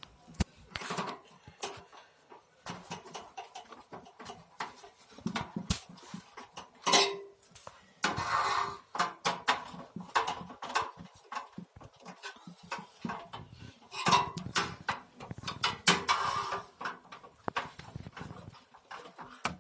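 Small metal parts and screws of a gas water heater's water valve clicking, clinking and scraping in irregular bursts as the valve is screwed back together over its new rubber diaphragm.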